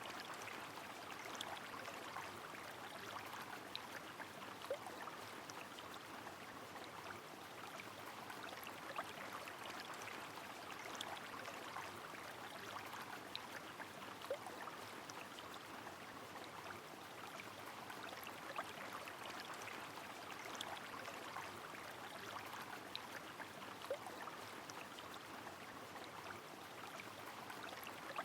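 Flowing river water with rain falling: a steady, even rush with many scattered sharp drip ticks.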